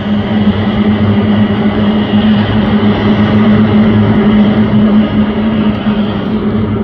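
Several racing motorboats' two-stroke outboard engines running at speed together, a loud, steady engine hum with the hiss of water and spray.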